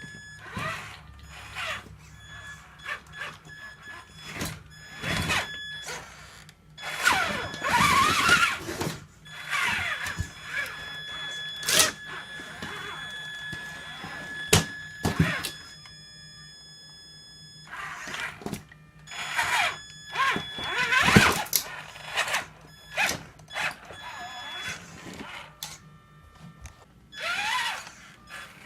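Traxxas Summit RC crawler's electric motor and geared transmission whining in short throttle bursts that rise and fall in pitch, with knocks as the truck's tires and chassis hit the obstacles.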